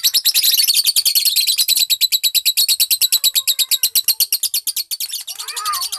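Lovebird 'ngekek': a long, unbroken, high-pitched chatter of about a dozen sharp notes a second. A few lower gliding calls join in near the end.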